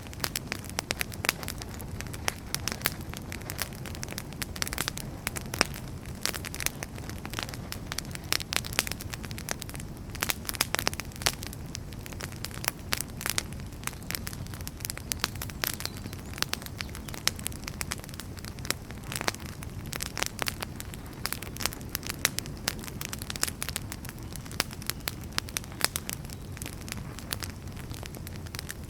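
Wood fire burning in a fireplace: a steady low rumble of the flames with frequent irregular sharp crackles and pops from the burning firewood.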